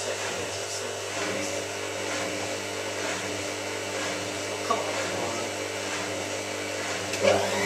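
Hotpoint 9534A washing machine running with a steady motor hum. Near the end its pitch starts to rise as the motor speeds up.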